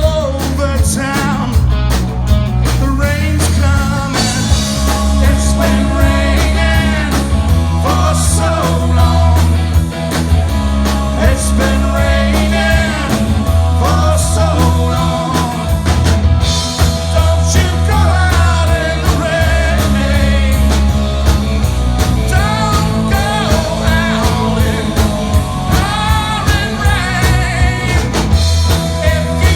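A rock band playing live with a singer, over a strong steady bass line.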